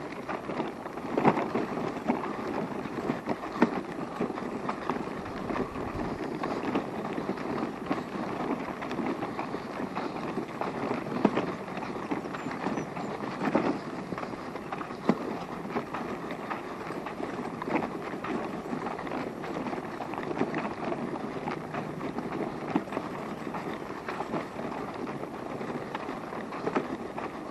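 Steady crunching rustle of moving along an outdoor path, with scattered small knocks and clicks from steps and a rolling wheel.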